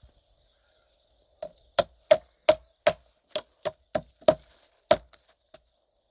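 A run of about a dozen sharp knocks, roughly three a second, each with a brief ring. They start about a second and a half in and stop shortly before the end.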